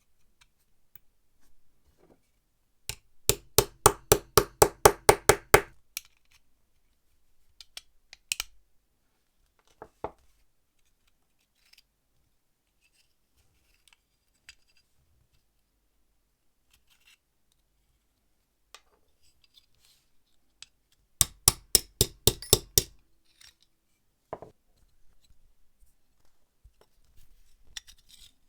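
Two runs of rapid sharp clicks, about four to five a second, each lasting two to three seconds: one near the start and one near the end. Scattered single knocks and faint scrapes of small metal parts being handled fall between them.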